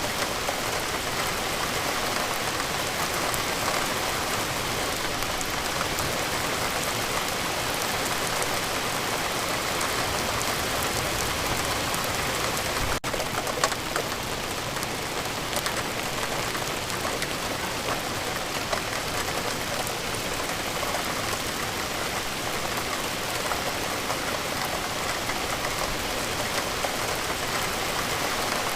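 Steady rain falling: a dense, even hiss scattered with the ticks of single drops striking a surface. There is a brief break with a click about halfway through.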